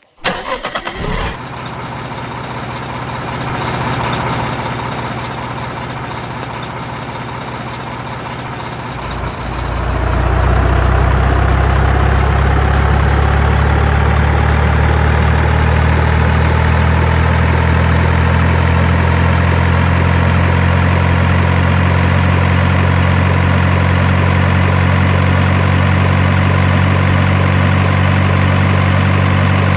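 Truck engine idling steadily, getting louder and deeper about nine seconds in and then holding an even, heavy idle.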